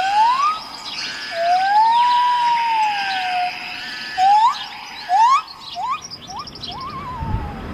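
Birds singing and chirping in a forest, over a steady high insect-like tone. A louder, slow gliding whistle rises and arches over the first few seconds, followed by a run of short rising whistles.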